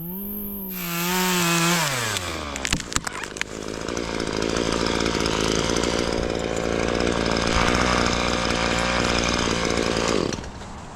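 A chainsaw revs up, holds, and drops back, then runs under load cutting through wood for about seven seconds before easing off near the end.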